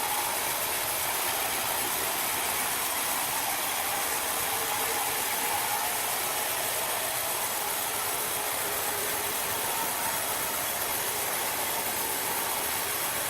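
A machine running steadily, with a constant hiss and a faint steady hum.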